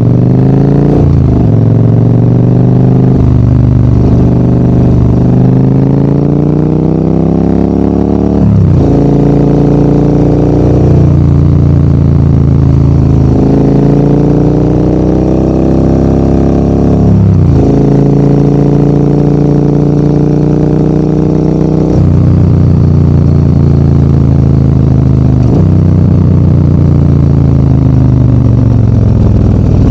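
Adventure motorcycle engine pulling uphill through the gears: its pitch climbs, then falls sharply at each upshift, several times. Near the end it settles into a steadier drone.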